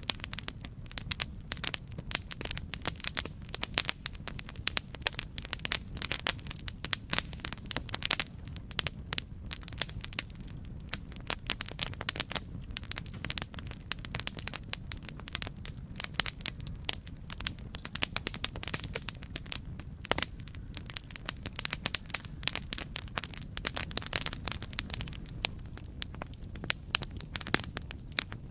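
Campfire burning, with frequent irregular sharp crackles and pops over a steady low rumble of the flames.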